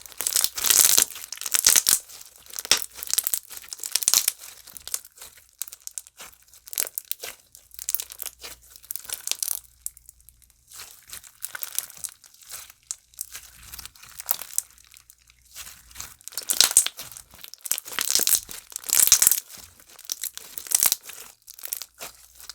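Hands squishing and crushing a thick mini jelly-cube slime, giving irregular runs of wet crackling and bubble pops as the small cubes break down. The crackling comes in uneven bursts, loudest near the start and again from about 16 to 21 seconds in, with quieter stretches between.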